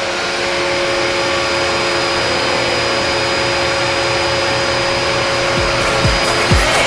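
Dyson vacuum cleaner running steadily: a loud rush of air under a steady motor whine. A beat of music comes in near the end.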